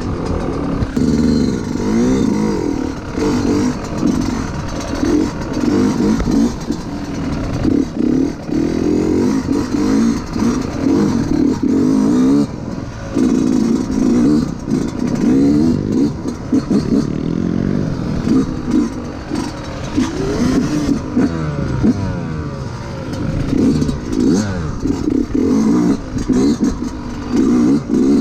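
Yamaha YZ125 two-stroke single-cylinder dirt bike engine being ridden, revving up and dropping back again and again, its pitch rising and falling every second or two.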